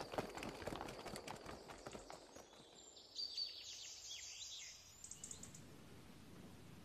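Faint bird chirps with short falling calls, from about three to five seconds in, after a fading patter of taps in the first two seconds.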